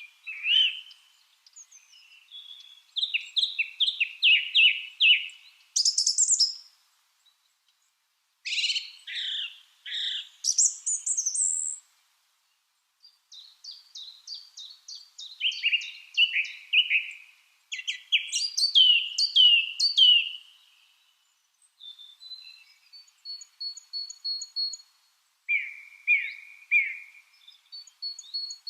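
Lovebirds chirping: runs of rapid, high chirps and short trills, broken by brief pauses, with a thin series of quick high peeps about two thirds of the way through.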